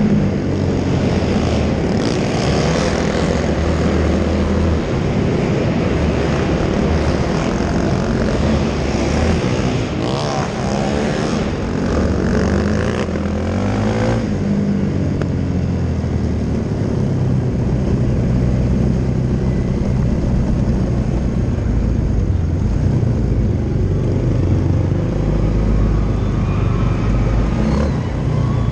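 Several racing quad engines revving hard, their pitch rising and falling as the riders throttle up and back off around the track.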